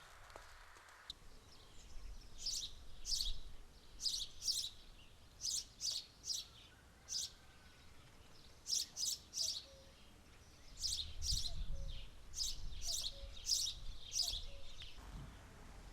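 A songbird singing short, high, falling chirps in groups of two or three, with short gaps between the groups.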